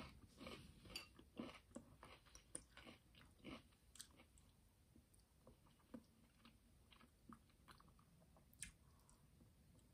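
Faint close-up chewing of a mouthful of chicken yakisoba noodles and vegetables: soft wet mouth clicks and bites, thick in the first few seconds and sparser after.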